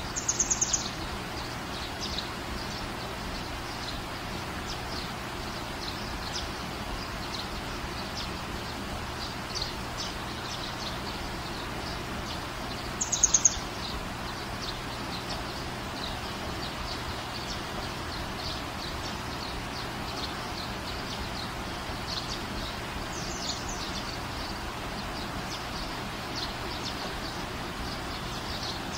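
Steady background hiss with three short bursts of rapid, high chirping from a small bird: one at the start, one about thirteen seconds in, which is the loudest, and a fainter one later.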